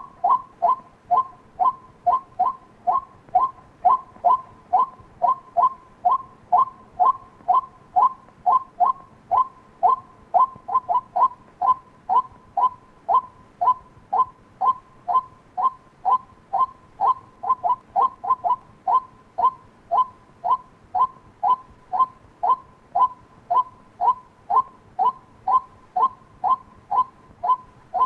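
White-breasted waterhen calling: a steady series of short, sharp kwak notes, about two a second, going on without a break.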